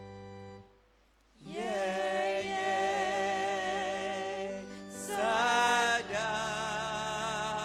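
Keyboard holding a chord, a brief pause about a second in, then singing of the third verse of a hymn in Twi over keyboard accompaniment.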